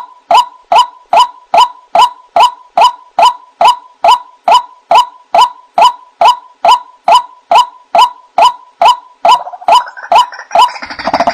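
White-breasted waterhen (ruak-ruak) repeating a monotonous, slightly falling 'kwak' call about two and a half times a second, played as a bird-trapping lure. Near the end further calls overlap it into a denser, noisier chorus.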